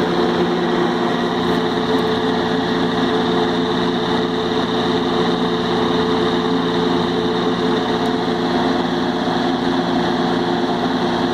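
1970s Hurricane 20-inch box fan with a Marco motor running on high speed: a steady, really loud hum and rush of air. On high it rattles, from the washers on the blade mount rubbing against the motor shaft.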